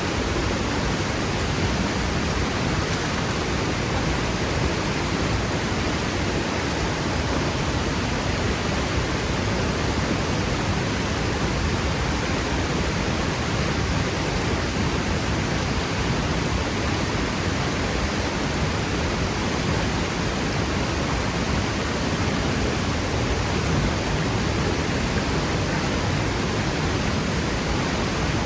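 Waterfall pouring steadily over rock, an even, unbroken rushing noise with a strong low rumble.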